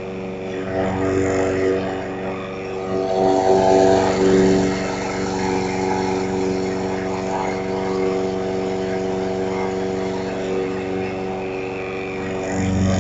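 Lawn mower engine running at a steady speed, a little louder around three to four seconds in.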